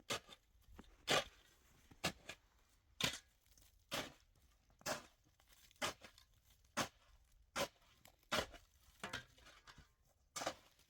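A series of short crunching, tearing strokes at a steady rhythm of about one a second, coming a little faster near the end.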